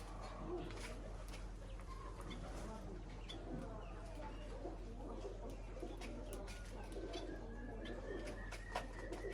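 Pet birds at a feeder, chattering in low cooing warbles, with many light sharp clicks of beaks pecking at seed. About two-thirds of the way through, a thin steady whistle begins and holds. A low steady hum runs underneath.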